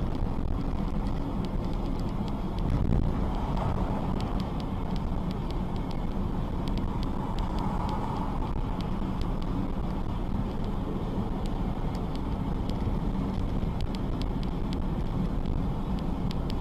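Steady vehicle noise: an engine and tyres rumbling at an even level, with faint scattered clicks and a slight swell about three seconds in.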